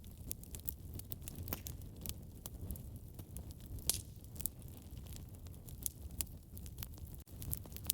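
Wood fire burning in a fireplace: a steady low rumble of flames with irregular crackles and pops, one louder pop about four seconds in.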